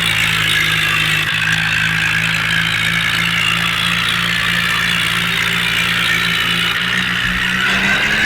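Tractor engine running steadily at a constant speed, with a higher whine over its low hum.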